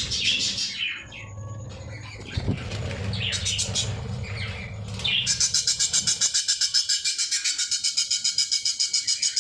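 Budgerigars chattering and chirping in a colony aviary. About five seconds in, a fast, even, high-pitched pulsing takes over, about five pulses a second.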